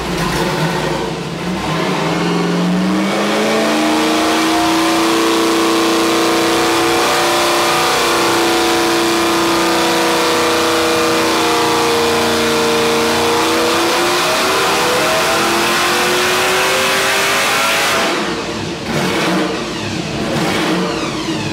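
Supercharged small-block Ford 306 with a Hampton blower running on an engine dyno. It revs up about two seconds in and holds high revs for about fifteen seconds, then drops back abruptly near the end to a lower, rougher running.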